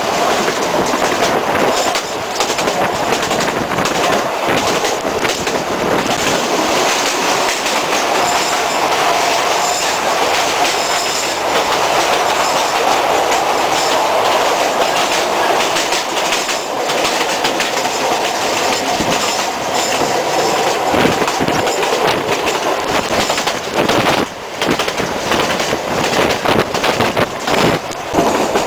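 The Sóller railway's vintage carriage running along the track, heard from inside the moving train: a steady loud rumble with wheels clicking over the rail joints. Around the middle the train passes through a tunnel.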